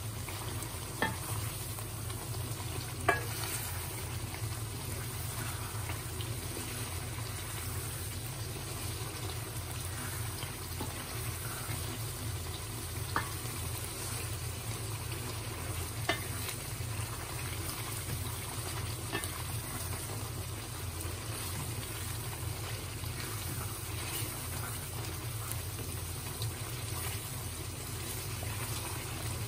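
Chicken karahi masala frying and sizzling in a metal karahi while a wooden spoon stirs it, with a few sharp knocks of the spoon against the pan, the loudest about three seconds in.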